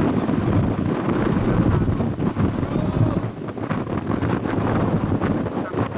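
Strong wind buffeting the microphone: a loud, gusting rumble that rises and falls.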